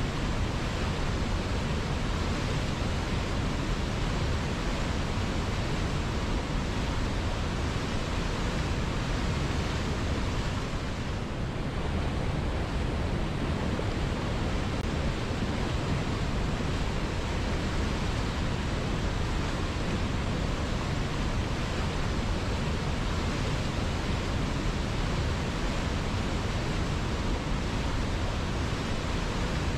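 River water flowing steadily: an even rushing noise with no other sounds, easing slightly for a moment about eleven seconds in.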